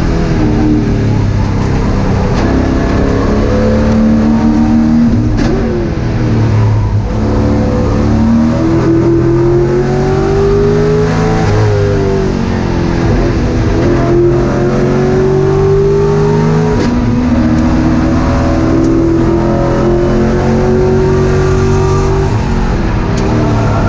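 Race car engine under hard acceleration, heard from inside the stripped cockpit. Its pitch climbs for several seconds at a time and drops sharply between pulls, over and over.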